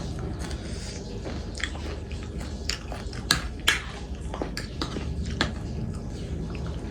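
A person eating, chewing and biting food, with many short sharp clicks. The two loudest clicks come a little past the middle.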